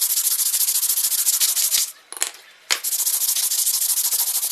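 Sandpaper being rubbed in rapid back-and-forth strokes over a car brake pad's friction material, a dense, hissy scraping that pauses briefly about two seconds in and then resumes. The pad surface is being sanded down to remove the cause of a squeal on light braking in reverse.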